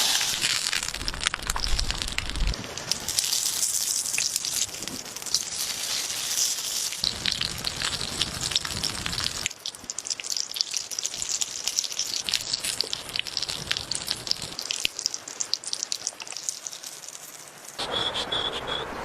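Food sizzling and crackling on a hot stone, a dense hiss full of sharp pops, changing abruptly several times as stretches are cut together.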